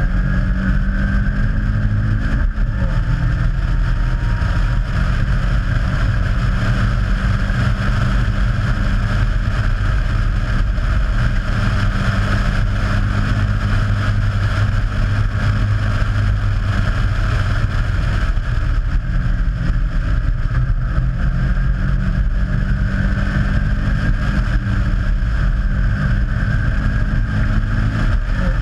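Caterham Seven's Ford Sigma four-cylinder engine running hard under racing load, heard from the open cockpit with wind rushing past. The engine pitch drops sharply about two and a half seconds in, then holds high and steady.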